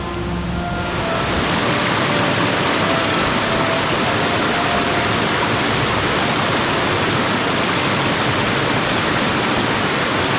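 Steady, loud rush of flowing water from a snowy mountain creek, with faint music fading out over the first few seconds.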